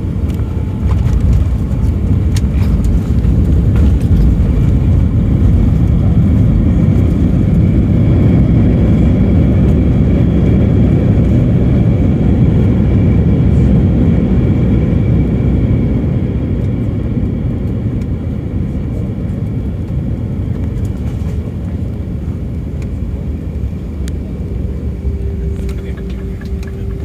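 Airbus A319's engine and airflow rumble heard inside the passenger cabin during landing. It swells about a second in, holds loud for roughly fifteen seconds, then gradually eases off.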